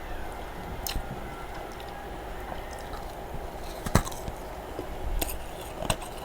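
A person chewing freezer frost, with a few sharp crunches between quieter chewing; the loudest crunch comes about four seconds in.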